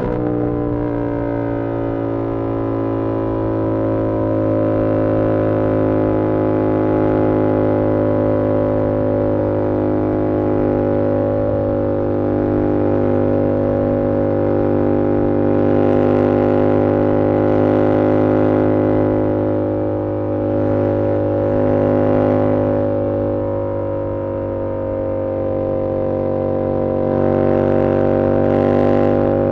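2022 Yamaha R7's 689 cc CP2 parallel-twin engine through an SC-Project CR-T exhaust, running at a steady cruise. Its pitch eases down slightly in the first few seconds and then holds even.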